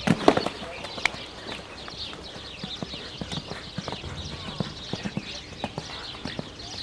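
Horse's hooves clopping: a run of irregular sharp knocks, loudest in the first half second, then lighter ones.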